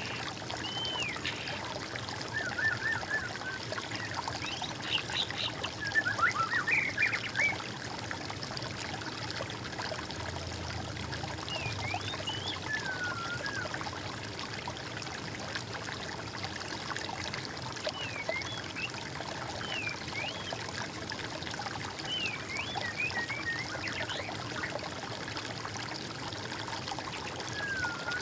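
Water trickling steadily over stones, with songbirds calling on and off above it in short whistled and warbled phrases, the busiest run of quick notes about five to seven seconds in.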